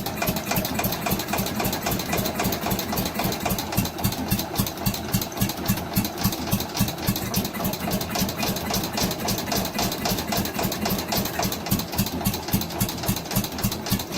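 Allis-Chalmers Big Ten garden tractor's Briggs & Stratton engine turning over on the electric starter, a steady rhythmic chugging of about three pulses a second, cranking without firing. It may be flooded from the choke.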